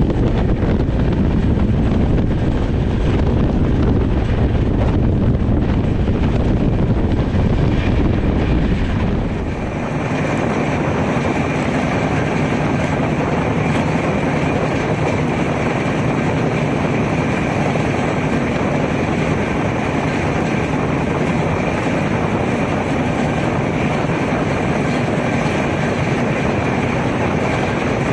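Passenger train running at speed, with a steady mix of rumble and rushing noise. About nine seconds in, the deep rumble drops away abruptly, leaving a lighter, hissier running noise with a faint steady whine.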